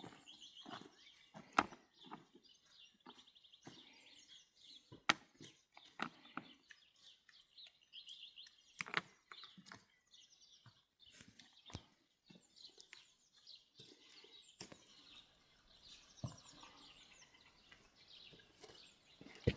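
Small birds chirping and twittering, with irregular sharp knocks and clicks scattered through, the loudest near two seconds and five seconds in.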